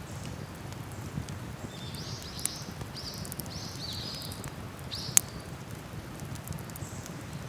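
Wood campfire crackling, with scattered sharp pops, the loudest about five seconds in. Under it a steady low rush, and a few short high chirps around the middle.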